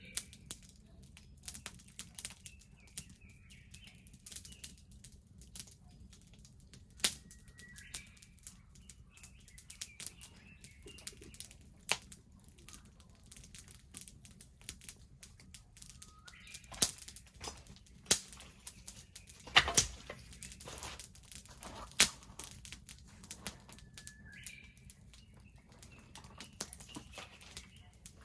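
Wood bonfire crackling, with irregular sharp pops, the loudest a few seconds apart. Now and then a bird gives short chirps.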